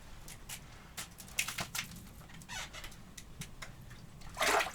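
Faint scattered clicks and rustles of a jigging rod and line being handled as a hooked fish is brought up through the ice hole, with a louder rushing sound near the end.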